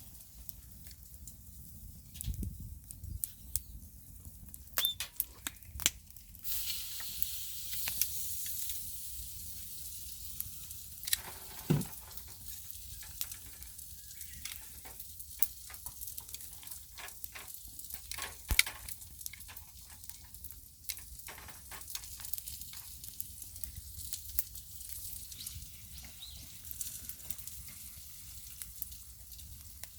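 Clams sizzling on a grill over a wood campfire, with sharp crackles and pops throughout. The sizzling hiss grows louder about six seconds in and carries on.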